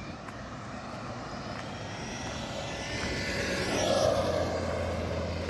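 Electric motor of a radio-controlled Traxxas Maxx truck whining as it drives past, the pitch and loudness rising to a peak about four seconds in and then falling away.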